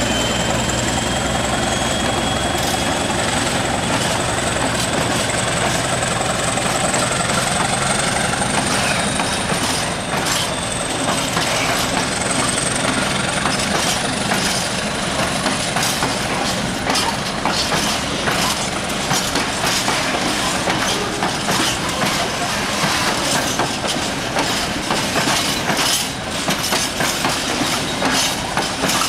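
Train running past: a high whine that rises slightly in pitch and fades by about halfway, then wheels clicking over the rail joints more and more often through the second half.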